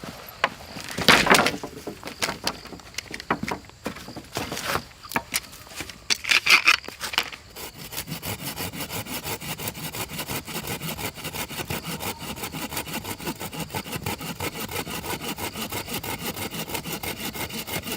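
Hand saw cutting through wood with quick, even back-and-forth strokes, starting about eight seconds in after a run of irregular knocks and rustling.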